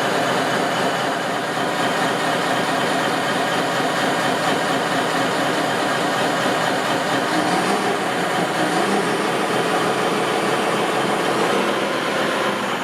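Steady, unbroken machine running sound, like a vehicle engine holding an even pace.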